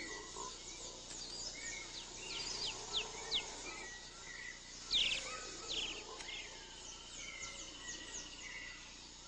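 Tropical rainforest ambience: many short bird chirps and whistles, scattered and overlapping, with a longer trill about six seconds in, over a steady high hiss of insects.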